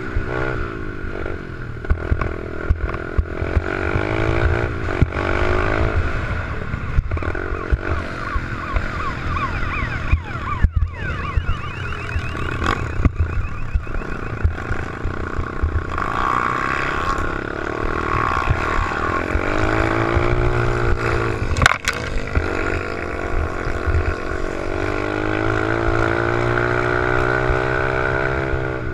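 Small pit bike engine being ridden, revving up and down again and again with its pitch rising and falling, with scattered sharp knocks and clatter.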